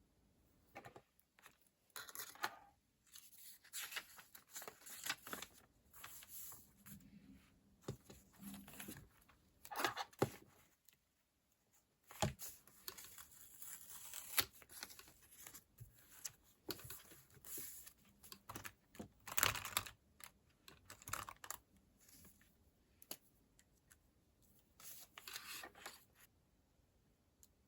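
Paper stickers being peeled and torn from their sheets and handled on a paper planner: irregular short rustles, scrapes and small taps, with a brief near-silent pause about eleven seconds in.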